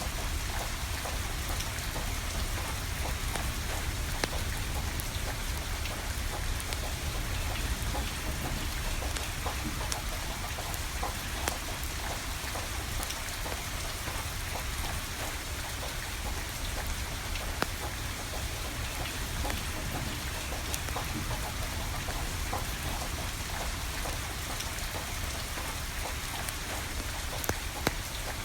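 Steady rain falling, with a wood fire crackling: an even hiss dotted with many small sharp pops, over a low rumble.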